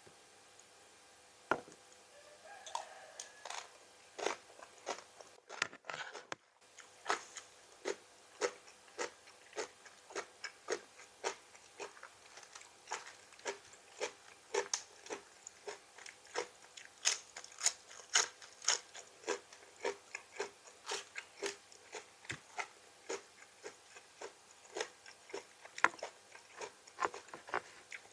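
Close-up chewing of crunchy raw vegetables: a long, steady run of crisp crunches, about two a second.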